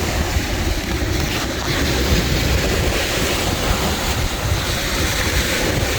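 Sea surf rushing steadily on the shore, with wind buffeting the microphone in a low, fluttering rumble.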